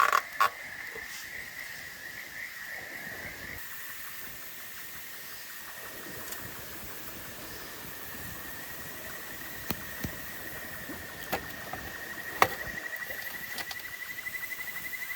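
A calling animal keeps up a continuous high-pitched trill, which becomes a fast pulsing near the end. A few sharp clicks and knocks sound over it in the second half, one of them louder than the rest.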